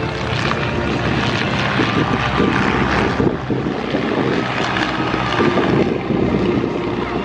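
Propeller airplanes' piston engines running at high power, a steady drone that swells and eases slightly.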